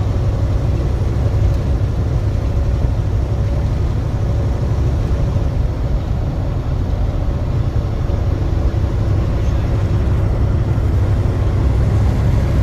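Truck running down the road: a steady low engine and road rumble with a faint even hum above it.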